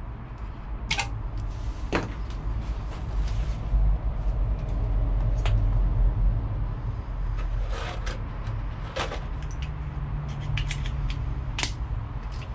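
Scattered small clicks and ticks of insulated wire ends being stripped and handled, over a steady low rumble.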